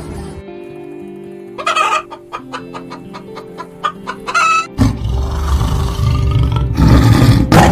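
Chicken clucking in a run of short calls over steady background music, followed from about five seconds in by a loud rushing noise.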